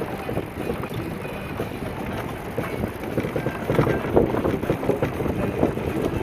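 Wind buffeting the microphone on a moving bicycle, with irregular knocks and rattles from the bike as it rolls along.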